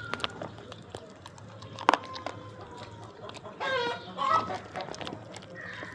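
Short farm-animal calls, two of them a little past the middle, over scattered clicks and knocks.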